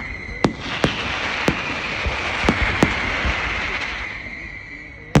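Fireworks going off: a run of sharp bangs over a dense crackling hiss, which thins out about four seconds in, then one loud bang near the end.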